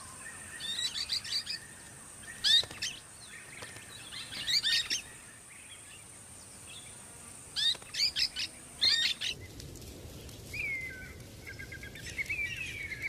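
Golden-shouldered parrots calling: several bursts of sharp, falling chirps. In the last few seconds come softer, warbling calls.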